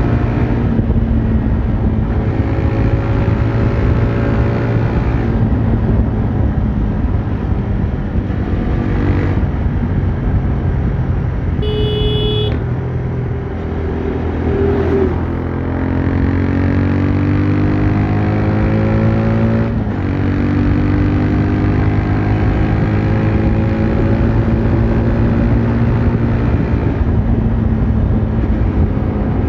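TVS Raider 125's single-cylinder engine and exhaust running under way. The revs ease off near the middle, then rise steadily and drop sharply, as at a gear change, before climbing again. A short high-pitched beep sounds about twelve seconds in.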